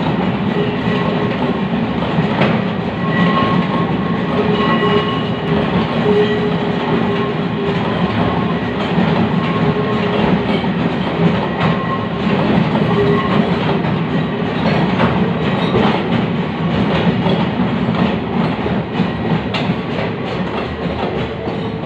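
Freight train wagons rolling past on the rails, wheels clacking over the joints, with short squeals from the wheels now and then.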